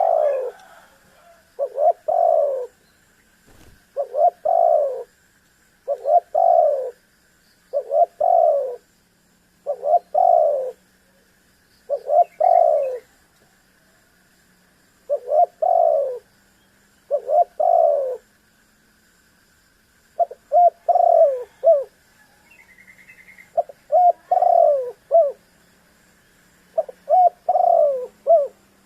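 Spotted dove (tekukur) cooing over and over, one short phrase of a few low falling coo notes about every two seconds. A faint steady high tone runs underneath.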